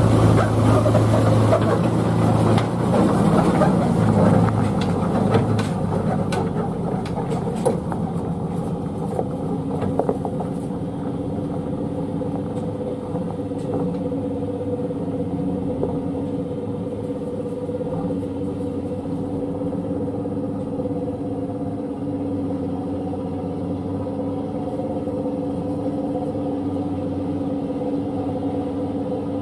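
An old Hino truck's diesel engine running, loud and rough with scattered knocks and rattles for the first several seconds, then settling into a steady drone.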